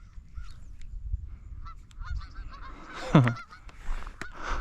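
A large flock of geese honking, many overlapping short calls, with one louder call falling in pitch about three seconds in. A sharp click sounds near the end.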